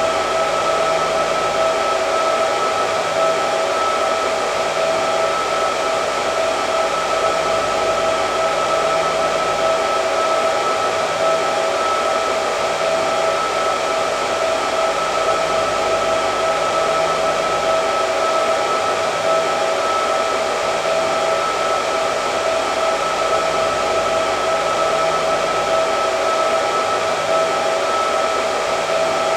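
Hair dryer running steadily, an even rush of blown air with a constant whine from its motor and fan.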